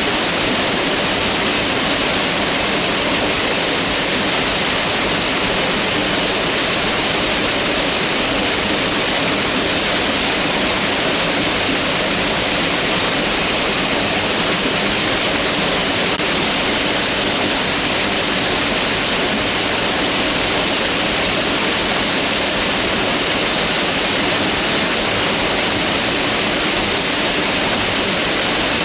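Mountain river rushing steadily over rocks: an even, loud, unbroken rush of water.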